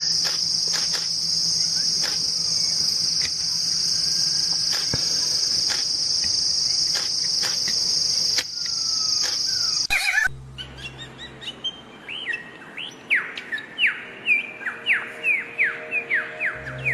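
A steady high-pitched buzz with scattered clicks for about ten seconds. It cuts off abruptly, and then a bird sings a run of quick, downward-sliding whistled notes that grow louder near the end.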